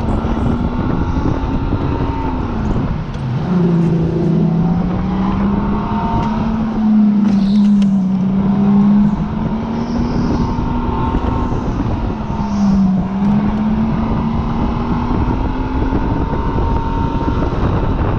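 Supercharged car engine running hard on a race track, its pitch rising and falling several times, over a steady rush of wind and road noise.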